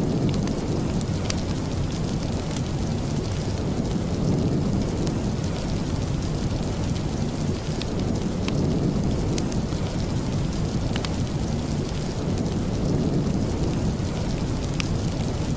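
Steady rain ambience with a deep, continuous low rumble underneath that swells gently, and scattered sharp ticks on top.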